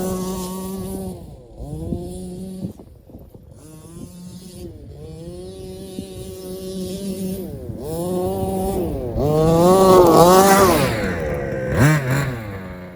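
Small two-stroke gas engine of an RC rally car revving, its pitch rising and falling again and again; loudest about ten seconds in.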